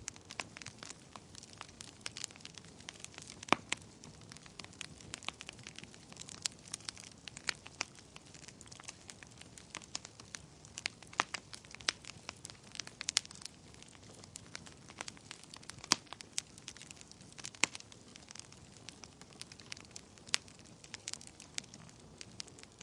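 Wood fire crackling in a fireplace: irregular sharp pops and snaps, some much louder than others, over a soft steady hiss of the flames.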